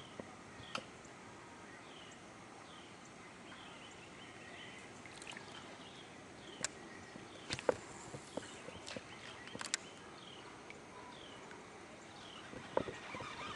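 A bird calling over and over with short, high, downward-sliding chirps, roughly one or two a second. Scattered sharp knocks and clicks come through it, a cluster of them in the second half the loudest.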